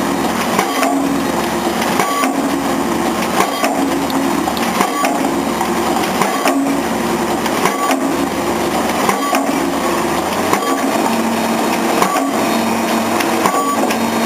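Pile driver hammering a concrete pile: a heavy blow about every second and a half, over the steady running of the rig's engine.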